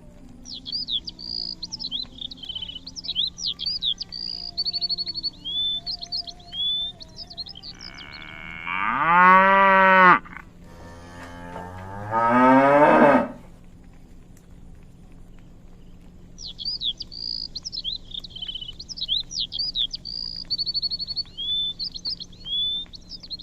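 A cow mooing twice: two long, loud moos about two seconds apart, the second rising in pitch. Birds chirp before and after the moos.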